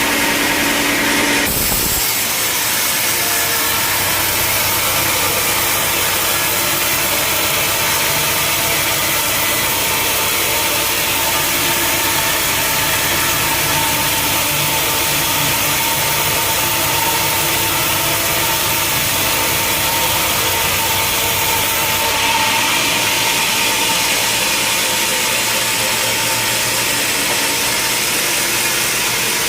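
Sawmill machinery running steadily: a dense mechanical noise with a steady whine, its sound shifting about a second and a half in and again about 22 seconds in.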